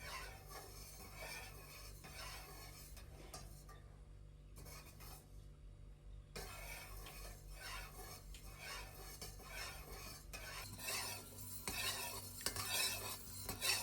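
A spoon stirring in a bowl or pot, with repeated scrapes and light clinks against the sides; the stirring gets busier and louder in the last few seconds.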